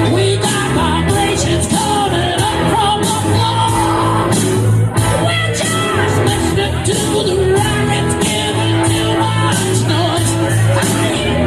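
Loud rock music with a lead vocal sung over guitars, bass and drums.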